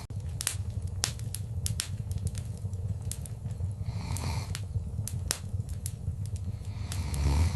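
Wood fire in a fireplace crackling, with sharp irregular pops and snaps over a steady low rumble of the flames, swelling louder near the end.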